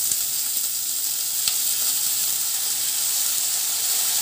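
Hot mustard oil in a kadai sizzling steadily as shredded cabbage is tipped in on top of frying tomato, garlic and chillies. A small click about one and a half seconds in.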